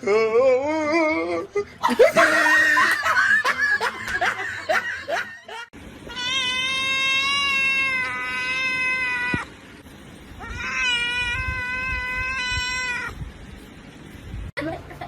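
A cat yowling: first a wavering, warbling cry and rougher cries, then two long, steady, high-pitched calls.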